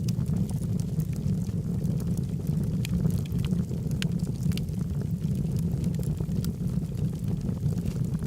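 Wood logs burning in a fireplace: a steady low rumble of flames with many small, irregular crackles and pops scattered throughout.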